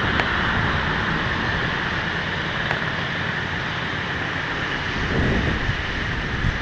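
Wind buffeting the microphone over ocean surf: a steady rushing noise with a low rumble that swells about five seconds in.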